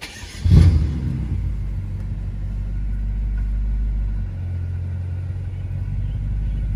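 BMW F10 M5's twin-turbo V8 with its mufflers cut off, starting up with a loud flare about half a second in, then settling into a steady idle.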